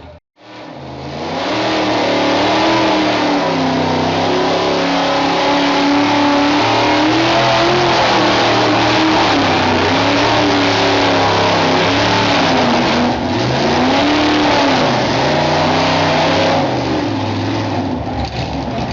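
Modified gas-class pulling truck's engine running hard at high revs during a pull, its pitch wavering up and down as it works against the load. It eases off about three seconds before the end.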